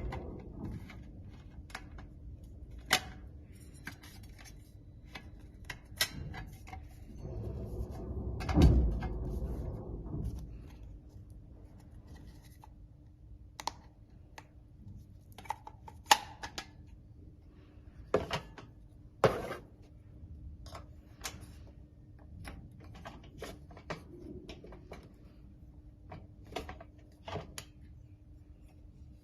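Scattered clicks, taps and knocks of bird feeder parts being handled and fitted together, with a louder low rumbling thump about nine seconds in, over a faint steady hum.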